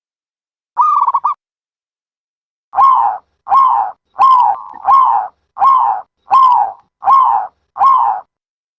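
Dove cooing: a short trilled coo about a second in, then a steady run of eight short coos about two-thirds of a second apart, each dropping slightly in pitch.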